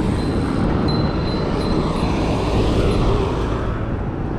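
Wind rumbling across the camera microphone together with road noise while a mountain bike is being ridden, a steady dense rumble with hiss.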